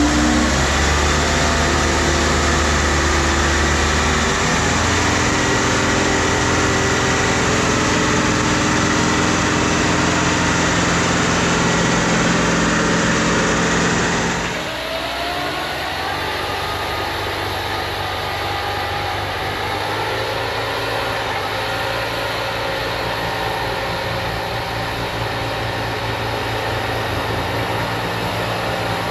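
Bobcat T66 compact track loader's diesel engine running steadily. About halfway through the sound drops in level and changes tone abruptly, and the engine carries on more quietly.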